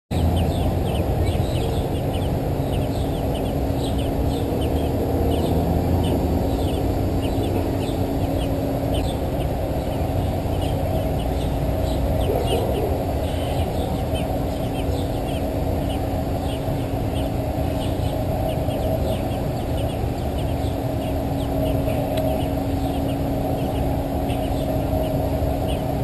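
Birds chirping in quick, short high notes, several a second, over a steady low rumble with a constant hum.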